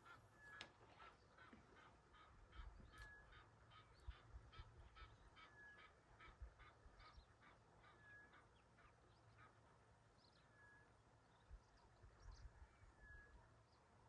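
Faint birds calling: a quick run of calls about three a second that stops about nine seconds in, and a short whistled note repeating every two and a half seconds.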